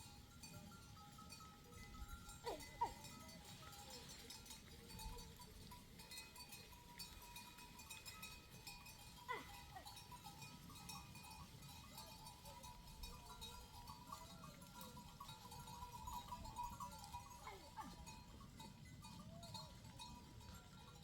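Faint flock of sheep and goats: small bells tinkling now and then, with a few short bleats and two sharp clicks.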